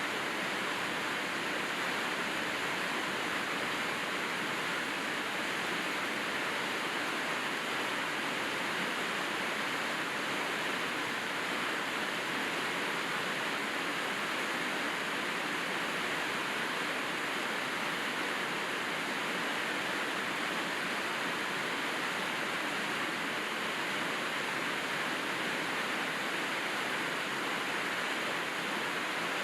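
Steady rainfall, an even hiss that holds at one level without a break.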